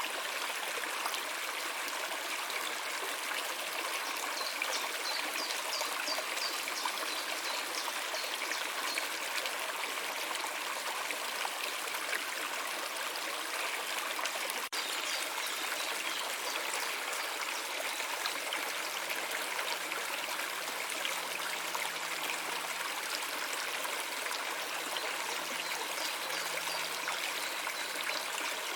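A stream of running water flowing steadily, a continuous trickling rush with no breaks.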